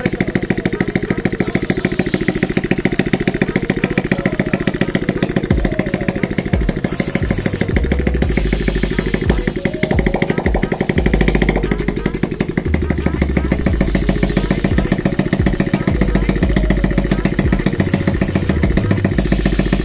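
Motorcycle engine being warmed up at idle with no exhaust or muffler fitted: a loud, steady, rapid popping straight from the open exhaust port.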